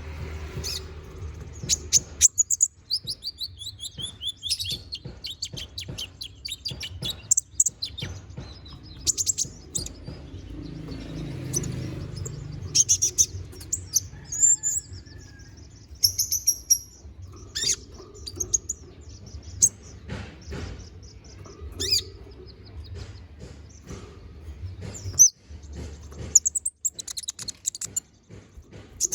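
Konin (kolibri ninja) sunbird singing non-stop in its vigorous, varied song: rapid high chirps, short trills and twittering phrases with sharp ticks, over a low steady hum.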